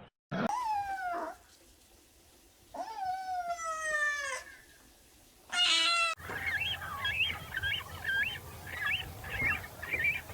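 An animal calling: two long calls that fall in pitch, then a short higher call. After a sudden switch to another recording come quick repeated high chirps over a low hum.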